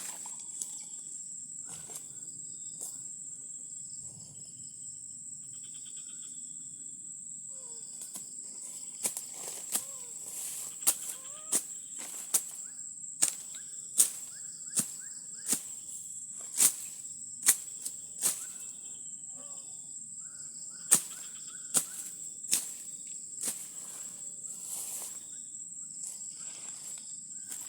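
Insects droning with a steady high-pitched whine. From about nine seconds in, sharp clicks or knocks come roughly once a second.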